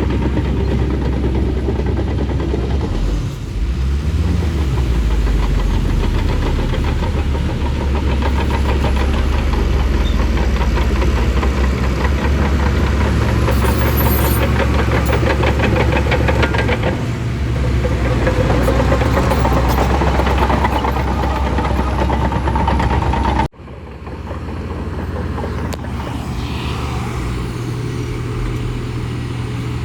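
Shantui crawler bulldozer's diesel engine running steadily under load. The sound breaks off abruptly about 23 seconds in, then comes back slightly quieter.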